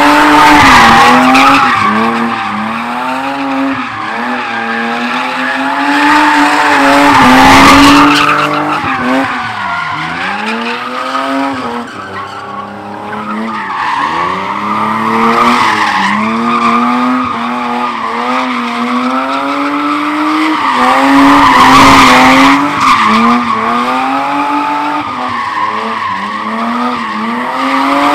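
A car engine held at high revs while the tyres screech continuously, as in a sideshow burnout or donut. The revs waver and briefly drop a few times.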